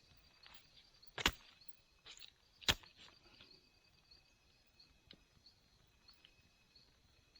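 Two sharp knocks about a second and a half apart, over steady high-pitched insect chirring.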